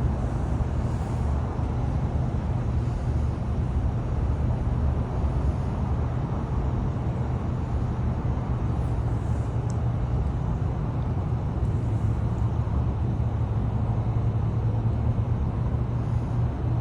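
Steady low engine rumble that runs unchanged, with no distinct events.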